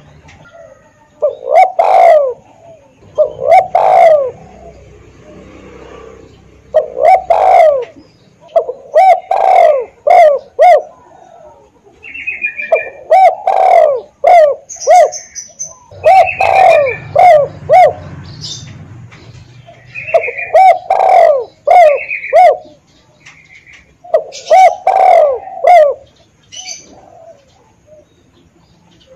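Spotted dove (tekukur) cooing, loud and close, repeating its phrase of several throaty notes every two to three seconds: a decoy call for luring doves.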